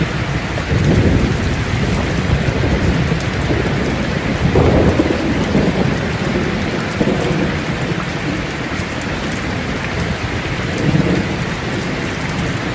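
Steady rain pouring down, with low rolling thunder swelling up three times: about a second in, around the middle, and near the end.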